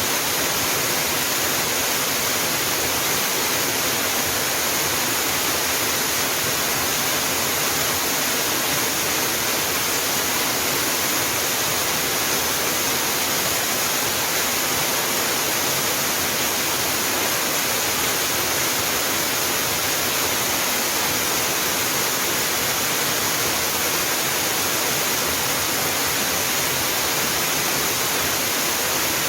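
Small mountain waterfall pouring steadily onto rocks, an even rushing hiss with no change.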